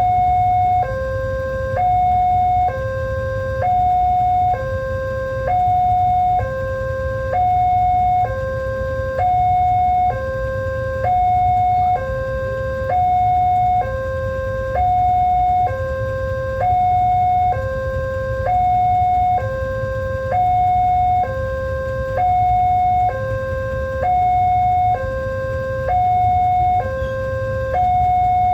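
Level-crossing warning alarm sounding an electronic two-tone signal: a higher and a lower tone alternating evenly, each held about a second, warning that a train is approaching, over a steady low rumble.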